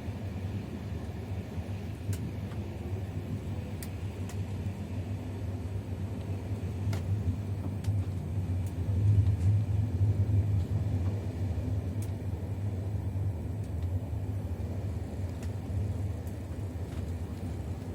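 Passenger train running along the track: a steady low rumble with a few faint clicks, swelling briefly about halfway through.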